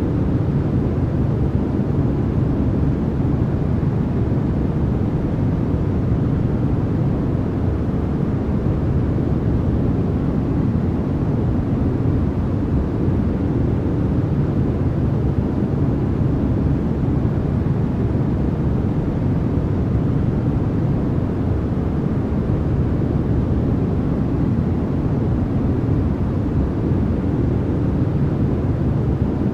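Continuous noise track sold as white noise: a steady, unchanging rush that is heaviest in the bass, so it sounds more like a deep rumble than a bright hiss.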